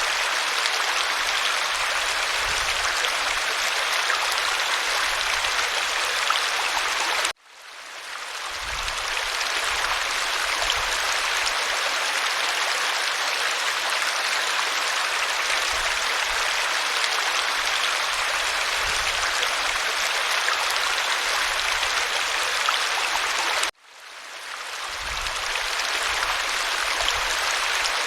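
Waterfall: steady rushing water with no change in pitch. It cuts out abruptly twice, about seven seconds in and again near the end, each time fading back up over a couple of seconds.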